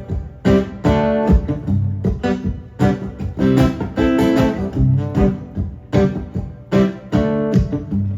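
Live song's instrumental close: guitar strumming in a steady rhythm over low bass notes, with no singing.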